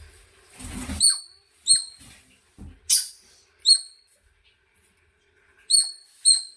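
A series of about six short, very high-pitched squeaks from a small animal, coming at irregular intervals, with low rustling during the first second.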